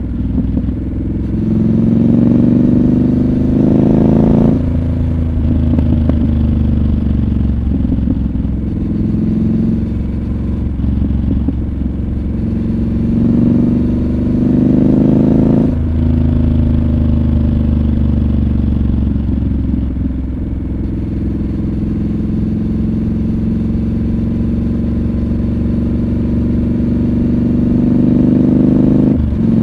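Triumph Scrambler 1200 XC's 1200 cc parallel-twin engine under way. The revs climb, then drop suddenly about four seconds in. They climb again until a second sudden drop near the middle, then fall slowly, and drop once more just before the end.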